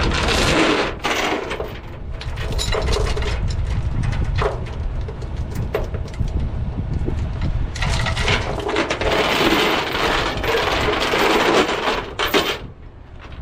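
Steel tie-down chain rattling and clinking as it is handled and pulled through, with scattered single clinks and a long run of continuous rattling that stops abruptly near the end. Wind rumbles on the microphone underneath.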